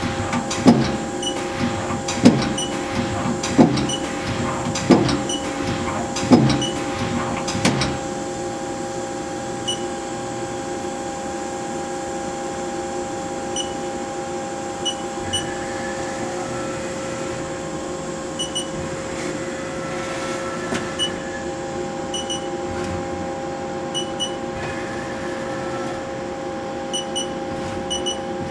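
Haas SL-20 CNC lathe's 10-station tool turret indexing, with six sharp clunks about a second and a half apart over the first eight seconds. After that the machine hums steadily with faint short beeps.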